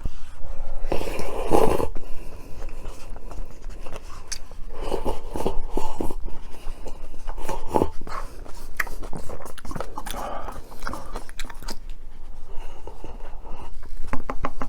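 Close-miked eating: a person biting and chewing food, with crunchy bites and chewing in irregular bursts.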